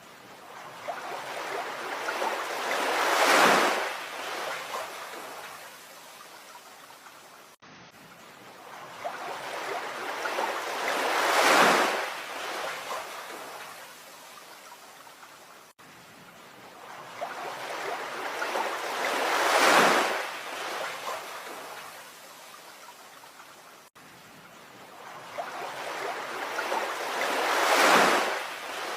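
Ocean waves washing ashore: four waves, each swelling to a loud crash and fading, about every eight seconds, with a brief dropout between them where the recording loops.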